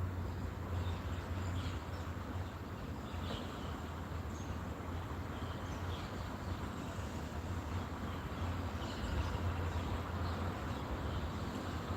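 Outdoor ambience with small birds giving short, scattered high chirps over a constant low hum and background noise.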